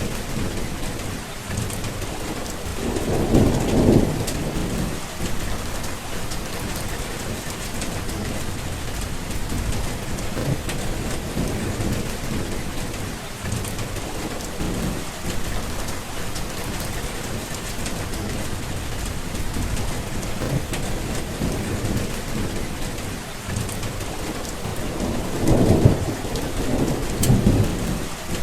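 Steady rain falling, with low rumbles of thunder rolling in twice, a few seconds in and again near the end.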